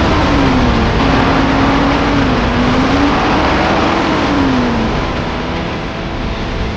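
Heavy truck engine running under load, its pitch rising and falling several times over a dense, loud drone, easing off a little near the end.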